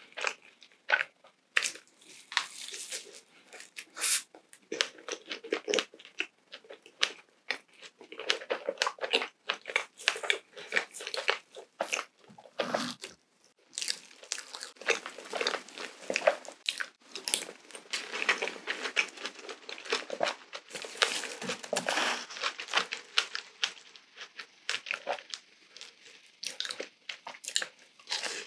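Close-miked eating of glazed Krispy Kreme donuts: continuous chewing and biting, with many small wet, sticky clicks and smacks of the mouth.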